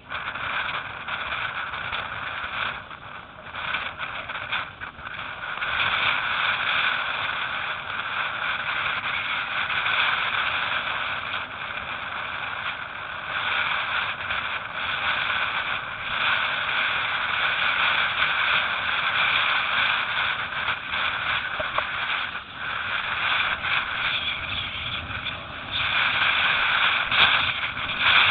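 Steady rushing of wind and water, swelling and easing in gusts.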